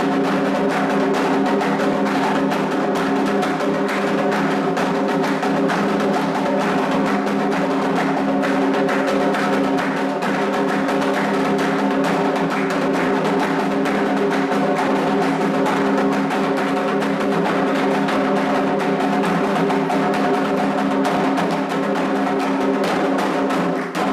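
Candomblé atabaque hand drums playing the rum rhythm for the orixá Ewá, with dense, steady strokes and a struck bell or wood-block-like part on top.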